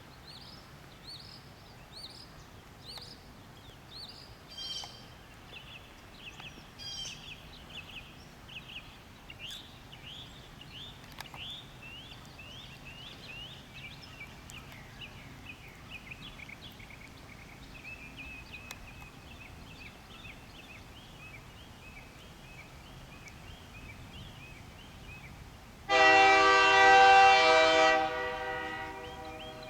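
A songbird chirps over and over, with a faint low hum underneath. Near the end a locomotive air horn sounds one loud, long blast for about two seconds, then fades: the train's warning for the grade crossing.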